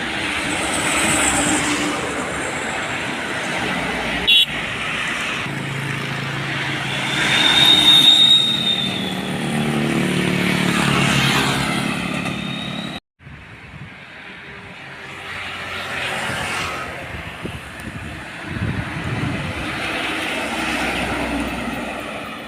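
Road traffic with heavy diesel trucks passing: one engine's pitch climbs as it goes by. There is a short high whistle about eight seconds in, and the sound cuts out abruptly for a moment about halfway through before the traffic noise returns.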